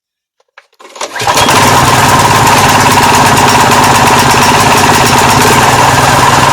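Subaru Robin EX17 single-cylinder overhead-cam engine starting about a second in and then running steadily, on its freshly cleaned carburetor.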